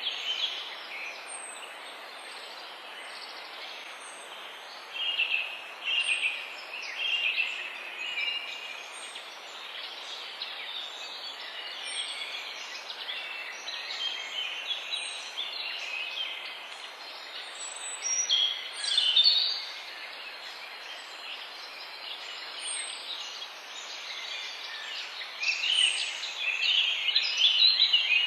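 A chorus of several songbirds singing and calling over a steady hiss of background ambience, with a short, very high note repeating every second or so. The singing swells louder a few times.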